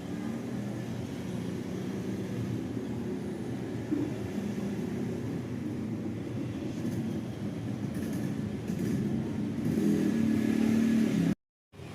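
Buffing machine running steadily while polishing motorcycle engine metal, growing louder near the end before the sound cuts out suddenly.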